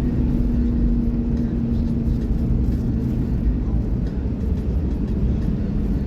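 Steady engine and road noise of a car being driven, heard from inside the cabin: a low rumble with a steady drone that drops slightly in pitch about halfway through.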